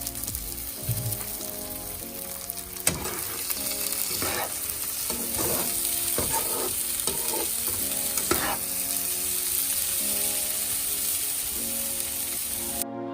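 Soaked, drained basmati rice sizzling in melted butter in a pot while being stirred, with repeated scraping strokes of the spoon against the pot. The sizzling cuts off just before the end.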